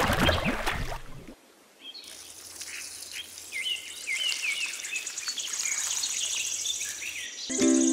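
Small birds chirping over a steady high trill of insects, a rural nature ambience. A louder jumble fills the first second and breaks off into a brief hush before the birds come in, and a loud cow moo begins right at the end.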